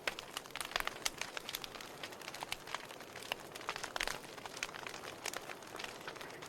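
Wood fire in a fireplace burning steadily, with a low hiss and irregular sharp crackles and pops of the burning logs.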